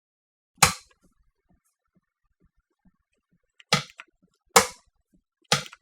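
Four sharp mechanical clacks, one alone and then three close together near the end: a submersible pump starter being switched on, its push buttons and newly refitted contactor snapping shut.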